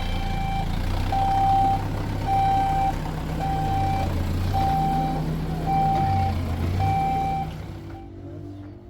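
A vehicle's reversing alarm beeping about once a second, over the low steady rumble of its running engine; both fade out near the end.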